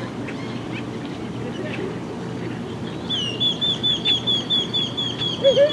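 A small bird singing a fast run of identical high chirps, about six a second, starting about halfway in, over scattered faint chirps from other birds. A short low call cuts in just before the end.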